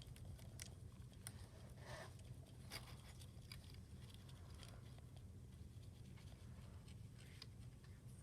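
Faint scratching and light ticks of a Sharpie marker being worked over a small die-cast toy car, a handful of soft clicks spread through, over a low steady hum.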